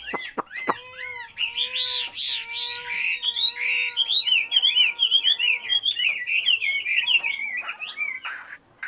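Caged songbird singing a fast, continuous song of quick chirped and whistled notes. A steady held whistle-like tone runs beneath the song for several seconds in the middle.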